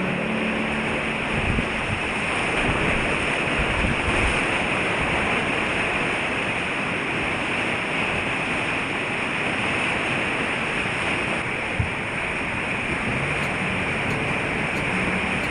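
Whitewater river rushing steadily, an even hiss of moving water, with a few dull knocks about a second and a half in, around four seconds in and near twelve seconds.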